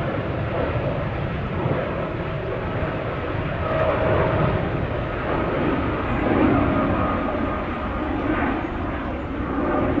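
Jet airliner engines running steadily, with a faint whine over the rumble.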